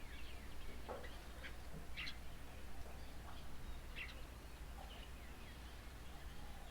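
Faint, short bird chirps, a few spaced a second or two apart, over a low steady hum.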